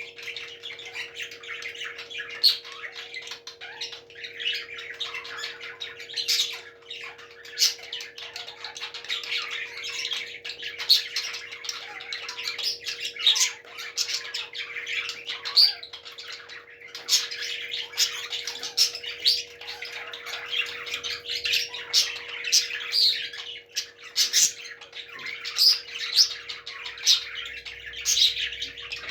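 Parrots squawking and chirping continuously, with frequent sharp, loud calls standing out, over a steady faint hum.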